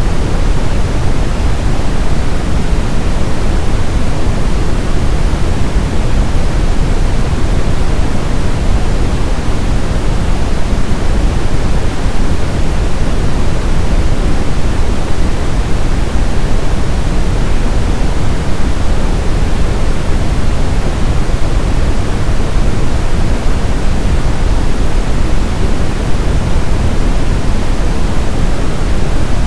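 Synthetic brown noise: a loud, steady hiss-rumble weighted toward the low end, unchanging throughout.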